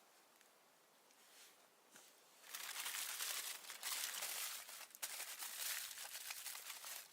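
Crinkling and rustling of something being handled, starting about two and a half seconds in after a quiet opening.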